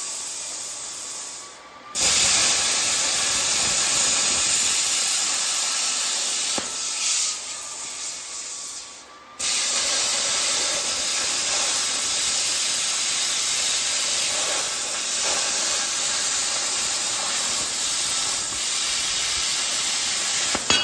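Plasma cutter cutting metal: a loud, steady hiss of the arc and air jet that cuts out abruptly twice, about 2 and 9 seconds in, and starts again at once.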